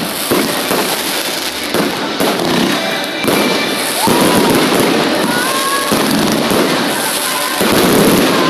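Fireworks going off: a dense, continuous crackle with a few whistles gliding up in pitch.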